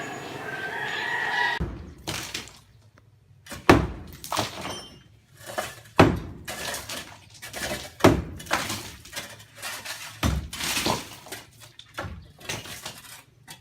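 Birds calling for about the first second and a half. Then a run of irregular heavy knocks and breaking crashes, roughly one every one to two seconds, from demolition work breaking up the structure.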